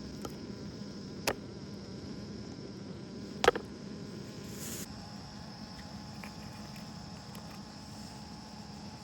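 Insects making a steady high drone in the background, with two sharp clicks, one about a second in and a louder one about three and a half seconds in.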